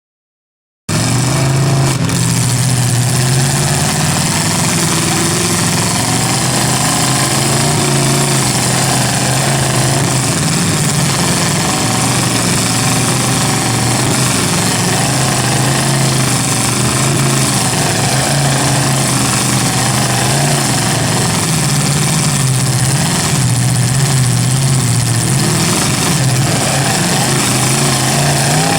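Truck engines running hard and steady at high revs, a loud, rough, continuous drone, as in a truck tug-of-war pull under heavy load. The sound cuts in after a brief dropout at the very start.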